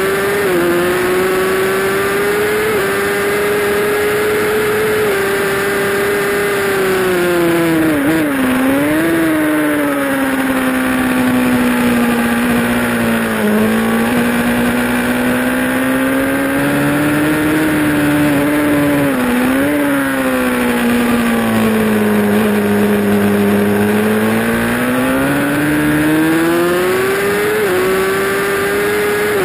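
Honda CBR1000RR's inline-four engine running at high revs on track, heard onboard over wind rush. The pitch drops through the slower sections and climbs again as the throttle opens. About eight and nineteen seconds in it dips and jumps back sharply, as on downshifts with throttle blips, and near the end it steps down briefly as it shifts up.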